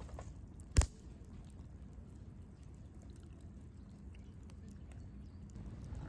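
Campfire burning, a low steady rumble with faint scattered crackles and one loud sharp snap a little under a second in.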